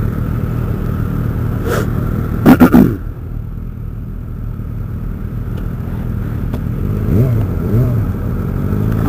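Motorcycle engine running at road speed with a steady low drone, heard from a helmet camera. About two and a half seconds in there is a brief loud rush of noise, and near the end the engine pitch climbs twice.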